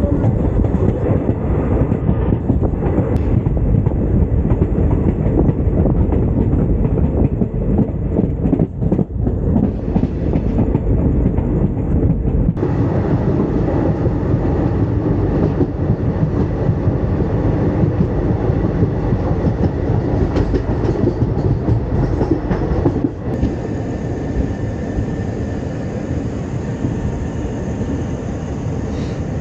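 Vasco da Gama–Velankanni Express passenger train running on the line, a steady heavy rumble with wheels clattering over the rail joints. It turns a little quieter about three-quarters of the way through.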